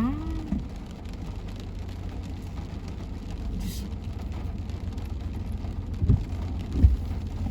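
Car driving, a steady low rumble of engine and road noise. A short voice sound comes at the very start, and two soft thumps near the end.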